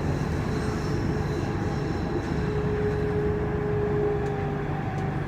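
Frankfurt U-Bahn train running between stations, heard from inside the car. There is a steady rumble of wheels on rails, the traction motors whine in several steady tones, and a faint click or two comes near the end.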